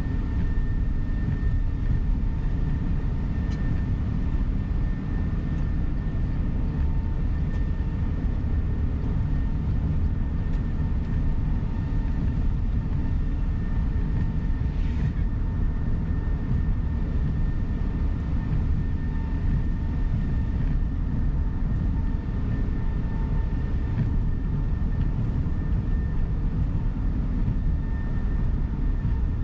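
Inside a moving coach bus: a steady low rumble of engine and road noise, with a faint, even whine above it.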